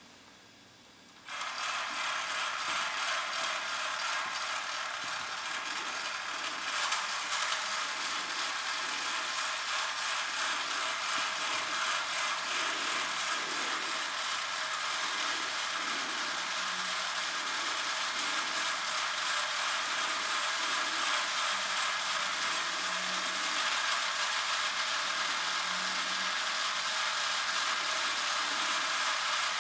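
Battery-powered Schuco Radiant 5600 tin toy airliner switched on about a second in: its small electric motor and gears whirring and rattling steadily. A higher whir joins around seven seconds in.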